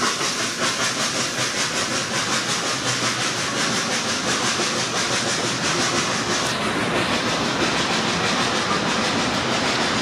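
Narrow-gauge passenger coaches of a steam-hauled train rolling past on the track: a steady rumble of wheels on rail. A quick regular beat runs through the first half.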